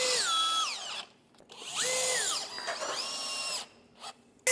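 Cordless drill-driver driving screws into the wooden ceiling panels: two short runs of its motor whine, the first ending about a second in and the second from about two seconds in to near the end, each stepping down in pitch before it stops.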